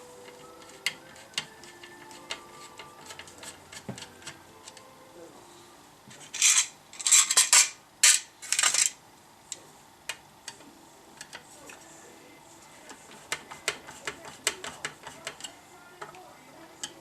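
Small metal parts and tools clicking and clattering, with a cluster of short, loud hissing bursts about six to nine seconds in.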